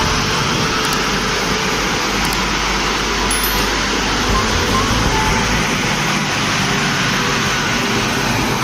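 Train passing at close range: a loud, steady rumble of steel wheels running on the rails.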